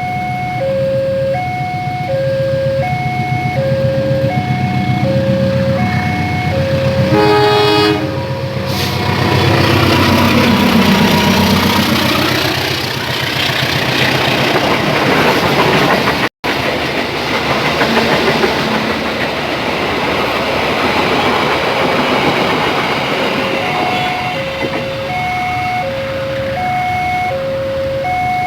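Level-crossing warning alarm sounding a two-tone alternating chime, about two notes a second. A train horn blows about seven seconds in, then a passing train runs through for about fifteen seconds and drowns out the chime, which is heard again near the end.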